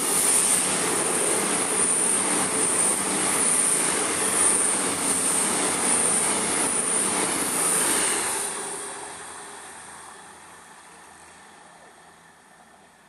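A train passing close by: a loud, steady rush of wheel and rail noise with a high hiss on top. It fades away after about eight seconds.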